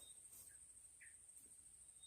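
Near silence: a faint, steady, high-pitched whine, with two brief faint chirps about halfway through.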